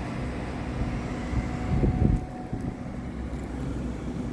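Steady low mechanical hum, like a running engine or motor, with a louder low swell about two seconds in.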